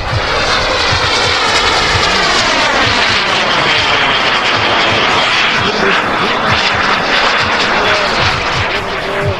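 Radio-controlled model jet's turbine engine flying past: a loud, steady rush with a high whine, its tone sweeping as the plane passes.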